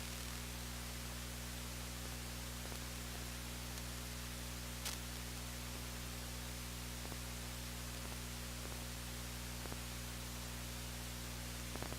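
Steady electrical hum with hiss: the noise floor of the audio line, with no commentary or game sound over it. A faint tick comes about five seconds in.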